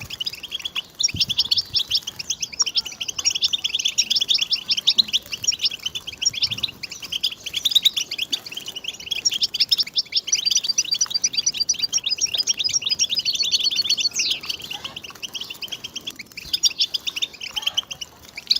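European goldfinch singing: a fast, nearly continuous twittering of rapid high chirps and trills, with a few brief breaks.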